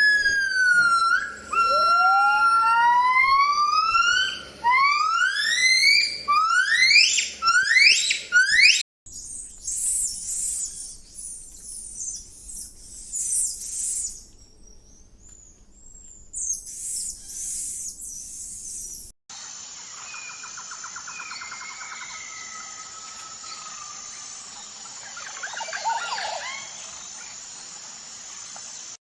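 Bird calls in three spliced recordings. First comes a run of loud rising whistled calls that come faster and faster, then high chirping, then softer calls over a steady high tone.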